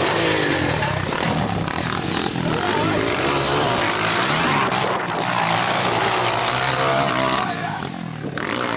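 Motocross motorcycles racing, their engines revving up and down in overlapping rising and falling pitches.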